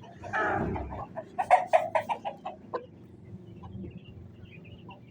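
Aseel fighting chicken clucking: a short pitched call about half a second in, then a quick run of sharp clucks over the next two seconds, fading to a few soft clucks.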